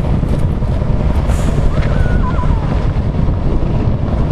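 Mack Superliner truck's diesel engine running as the bobtail truck pulls away, a steady low rumble mixed with wind buffeting the microphone.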